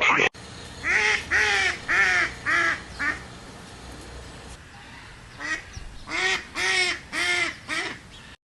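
Waterfowl calling: two runs of about five short calls each, every call rising and falling in pitch, the first run starting about a second in and the second near the end.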